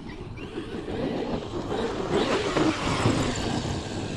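Large electric RC monster truck running over a rough dirt track: tyres and drivetrain giving an uneven rumble that gets louder around the middle.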